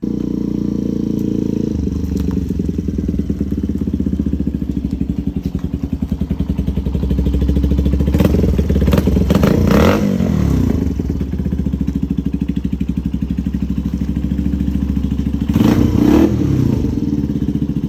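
A vehicle engine idling with an even, pulsing exhaust note. It is revved up twice, once about halfway through and again near the end.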